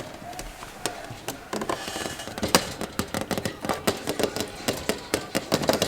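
A quick, irregular series of light clicks and knocks, several a second, growing busier toward the end.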